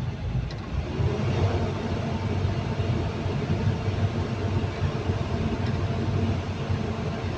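Caterpillar 320D2 L excavator's diesel engine running steadily, with a higher steady hum joining about a second in.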